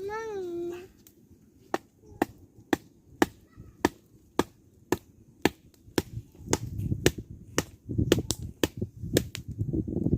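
Wooden stakes of a stick grill being pounded into the ground, a sharp knock about twice a second, to lower the grill frame.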